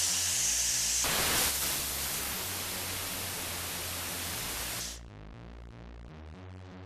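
Hair dryer styler blowing air: a steady rushing hiss that cuts off about five seconds in. Background music with a steady low beat plays throughout.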